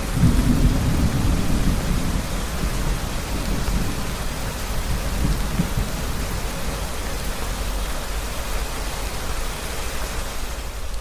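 Steady rain with a low rumble of thunder rolling under it, heaviest in the first couple of seconds.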